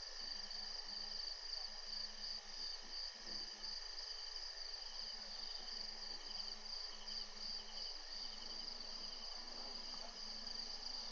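Steady evening insect chorus, with crickets trilling in a high continuous band and a second, pulsing chirp joining about halfway through.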